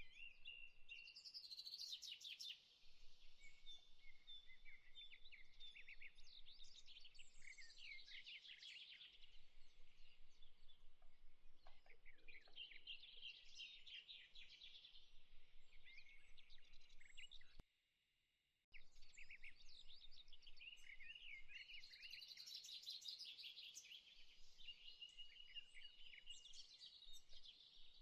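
Faint birdsong: many small birds chirping and trilling, with short high calls overlapping continuously. The sound drops out for about a second just after the middle, then resumes.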